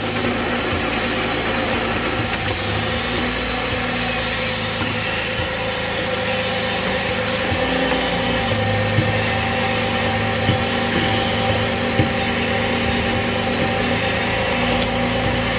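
Holden Commodore's 3.6-litre LLT V6 idling steadily, running so the 6L50 six-speed automatic circulates its fresh fluid during the level fill. A few light clicks come in near the middle.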